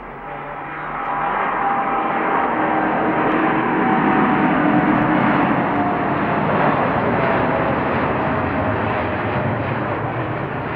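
Boeing 787 Dreamliner's GEnx turbofan jet engines at takeoff thrust: a loud, steady jet roar that grows louder about a second in, with faint tones slowly falling in pitch as the airliner passes.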